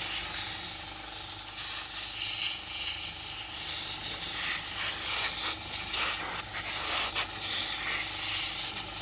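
Hissing high-pressure spray, such as a pressure-washer jet, swelling and fading as it moves. It fits an engine-bay wash.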